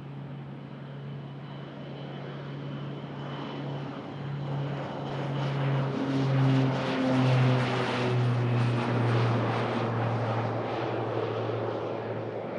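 Fixed-wing aircraft taking off from the runway: engine drone with a high whine that slowly falls in pitch, growing loudest about seven seconds in and then easing off.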